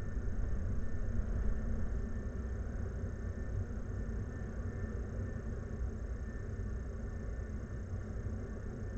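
Strong wind buffeting the microphone: a steady low rumble that swells and eases, with a faint high tone underneath.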